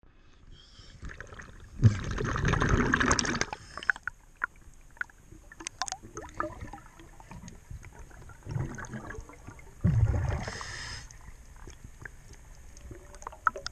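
Underwater bubble rush from a diver's regulator, heard as bursts of about a second and a half at each breath out, a few seconds apart, with small scattered clicks and crackles between them.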